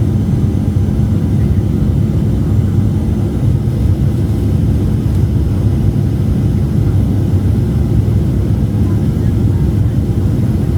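Cabin noise inside a Boeing 737-700 airliner: a steady low rumble of the engines and airflow, holding even without rising or falling.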